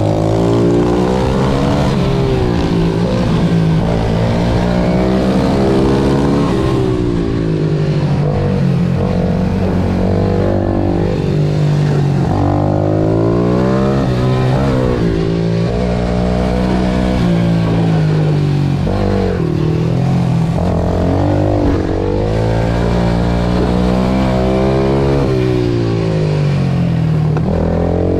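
Pit bike engine revving hard on a lap of the track, its pitch climbing under acceleration and dropping again at each gear change and braking, over and over.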